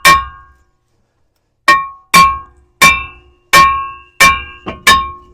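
Hammer blows on a seized brake rotor of a Ram 2500, about eight strikes, each leaving the metal ringing. The first comes right at the start, then after a pause of about a second and a half the rest follow faster, the last two close together. The rotor is stuck on the hub and is being beaten loose.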